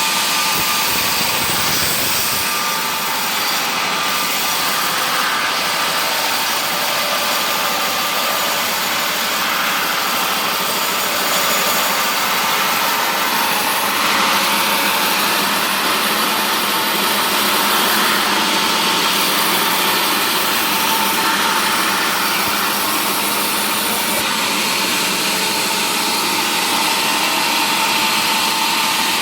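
Woodworking machinery running with a steady, even noise and no breaks.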